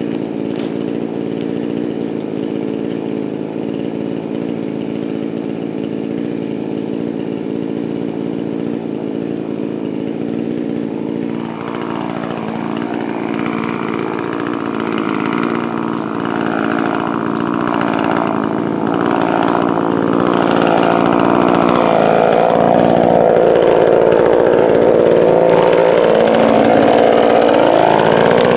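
Poulan Pro 4620 two-stroke chainsaw, newly re-pistoned and set rich for break-in, running steadily. From about eleven seconds in it cuts into a dead apple tree, its pitch wavering under load and growing louder toward the end.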